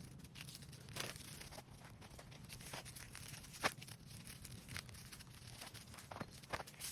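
Litter crinkling and rustling as it is handled and picked up, in scattered bursts with a sharp click a little past halfway.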